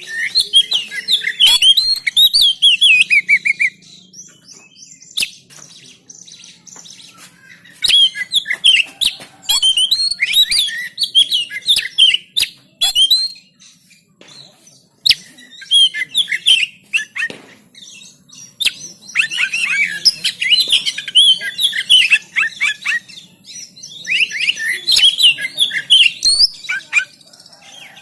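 Oriental magpie-robin (kacer) singing in several phrases of a few seconds each: fast, varied chirps and whistles, separated by short pauses.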